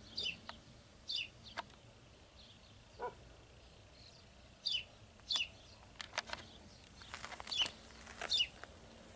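Birds chirping outdoors: short, high, falling chirps every second or so, with one lower call about three seconds in and a few soft ticks.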